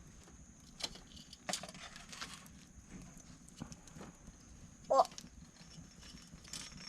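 Small wood campfire crackling, with scattered light pops and knocks about once a second and a brief high squeak about five seconds in.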